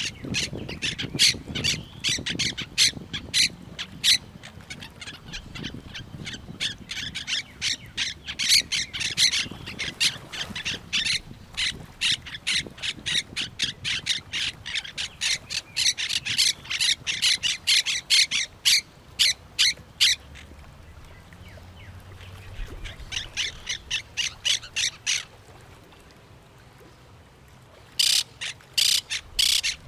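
Parrots squawking in fast repeated calls, several a second, with two short lulls before loud squawks start again near the end.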